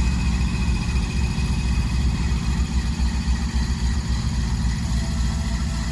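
Diesel-electric freight locomotive engine running with a steady low rumble.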